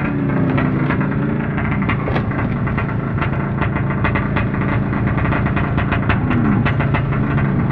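An engine running, its pitch rising and falling now and then, with many short sharp clicks over it.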